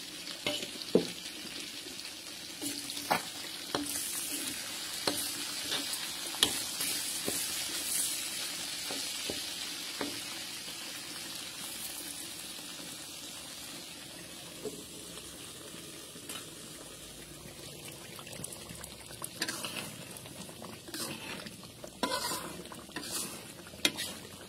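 Battered eel frying in hot oil: a steady sizzle with frequent sharp pops and spatters, the sizzle strongest in the first half and softer later, with a cluster of pops near the end.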